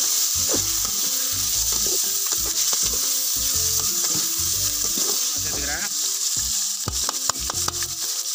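Goat liver pieces with onion and green chilli sizzling in hot oil in a large aluminium kadai, stirred and scraped with a perforated steel ladle. A few sharp clicks come near the end.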